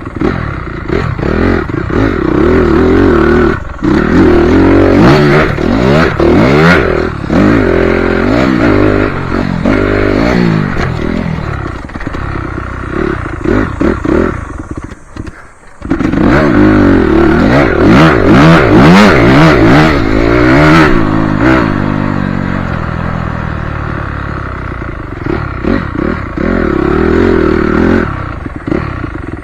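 Motocross bike's engine revving up and dropping off again and again as it is ridden around a dirt track, with rattling and clatter throughout. The engine sound dies away briefly about halfway through, then picks up again.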